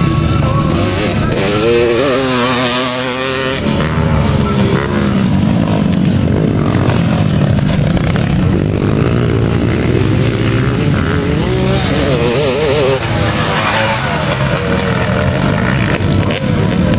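Motocross motorcycle engines running and revving, their pitch rising and falling over and over.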